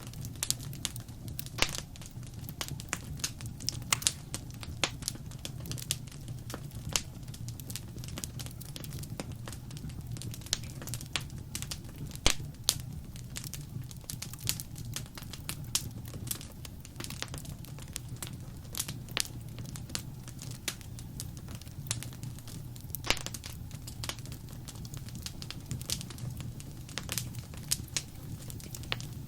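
Wood fire crackling: irregular sharp snaps and pops of varying loudness over a steady low rumble of burning.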